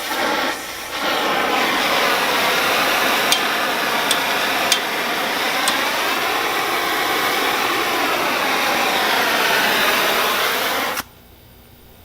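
Oxy-acetylene torch flame hissing steadily as it heats a bent metal rack to straighten it, with a few sharp ticks in the middle. The flame is shut off suddenly about a second before the end.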